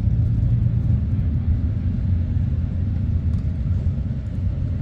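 Motorcycle engines running together as a steady low rumble.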